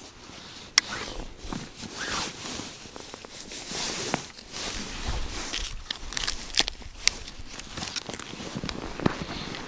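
Irregular rustling and scraping, broken by a few sharp clicks.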